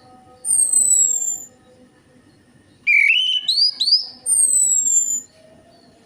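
Orange-headed thrush singing in three loud whistled phrases, each about a second long, made of high descending slurs and rising notes, with short pauses between phrases.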